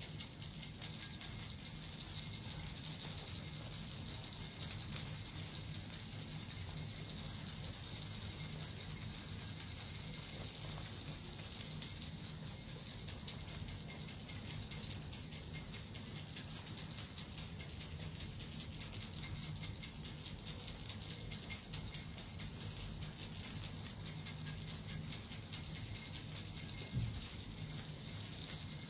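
Small suzu bells and a metal rattle shaken continuously, a steady, dense, high jingling that runs on without a break.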